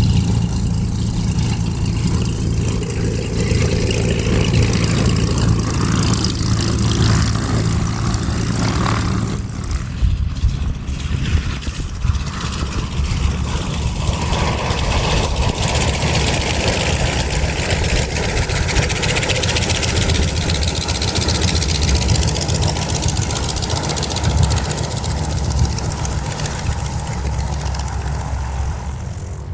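Radial piston engines of vintage twin-engine aircraft running steadily with a deep hum. First comes a Douglas C-47 Skytrain's pair of Pratt & Whitney R-1830s, then, after a sudden change about ten seconds in, a Beech C-45 Expeditor's pair of Pratt & Whitney R-985s.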